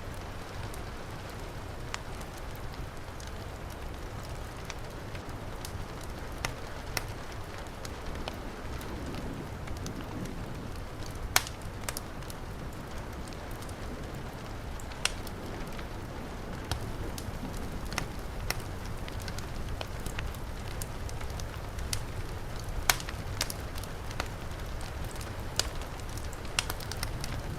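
Wood fire crackling, with sharp pops scattered irregularly through it, over the steady hiss of heavy rain. One pop a little under halfway through is the loudest.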